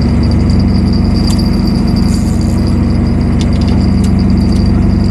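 Boat engine running steadily, a loud, even low hum with a thin high whine over it and a few sharp clicks.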